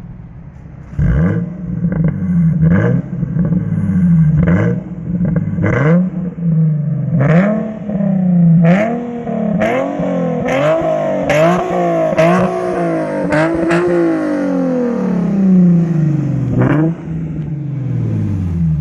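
Infiniti G37 Coupe's 3.7-litre V6 through a straight-through, non-resonated Topspeed axle-back exhaust, revved in a string of quick throttle blips, each rising and dropping back with a sharp crack at its start. The blips come faster in the middle, then the revs fall away slowly near the end.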